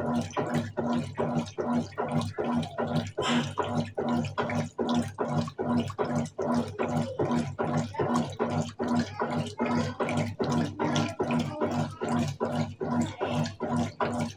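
Colormaq Eco Max 14 kg washing machine in its wash phase, the agitator churning the load: motor hum and sloshing water in a steady rhythm of about three pulses a second.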